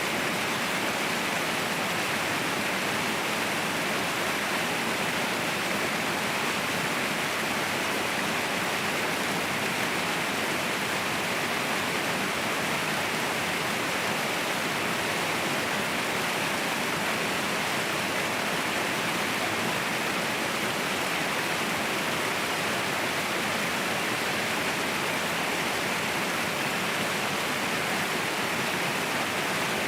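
Mountain waterfall: falling water makes a steady, unbroken hiss that is brightest in the upper-middle range and has little low rumble.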